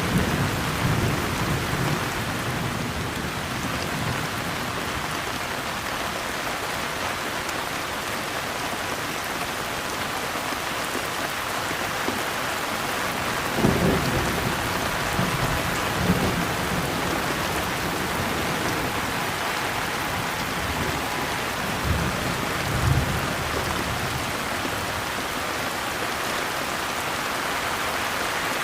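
Steady heavy rainfall, with low rolls of thunder at the start and three more times, about halfway through and near two-thirds of the way in.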